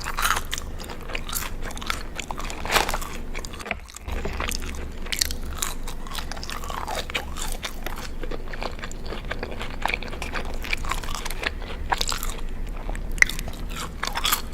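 Close-miked crunchy chewing and biting, a dense run of crackling crunches with a brief pause about four seconds in.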